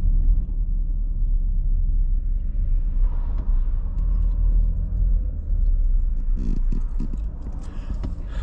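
Steady low rumble of a motor vehicle travelling on the road: engine and road noise.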